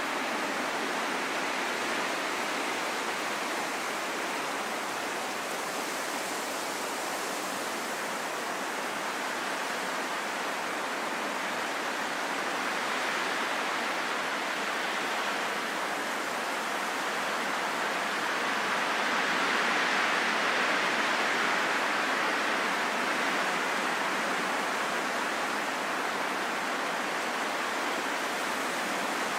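Steady, even wind noise, a smooth hiss with no distinct gusts, swelling a little about two-thirds of the way through.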